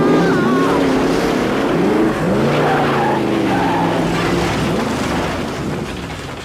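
Monster truck engine revving, its pitch rising and falling over and over, fading near the end.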